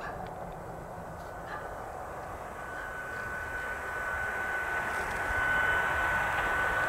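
Fast electric express train approaching, a rising rush of rail noise that grows steadily louder. From about a third of the way in, a steady high whine rises with it.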